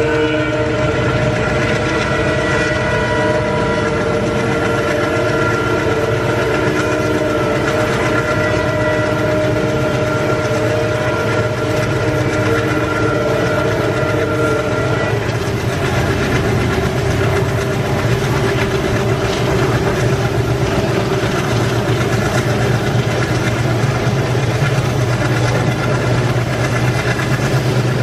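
An Indian Railways train with a long, steady horn held for about the first half. The horn stops and the train's rumbling running noise carries on.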